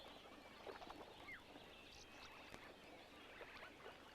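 Faint wetland ambience of scattered bird chirps and short calls.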